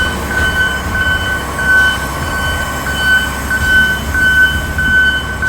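A vehicle's backup alarm beeping about twice a second over the steady low rumble of a diesel engine.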